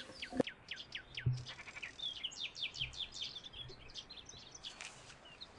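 Songbirds singing: runs of short, rapidly repeated descending whistled notes, one run in the first second or so and a longer one in the middle.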